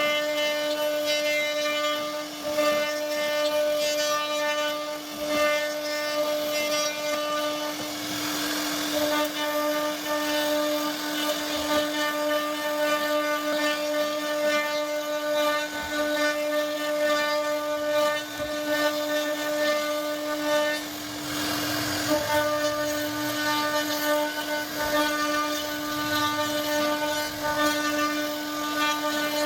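CNC router spindle running with a steady high whine while it machines wood, with rougher cutting noise briefly around 8 seconds in and again around 21 seconds in.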